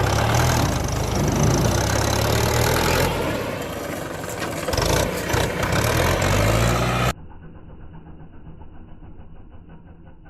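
Mahindra tractor diesel engine running loudly. The engine speed rises again about five seconds in. About seven seconds in the engine sound cuts off abruptly, leaving a much quieter, muffled background.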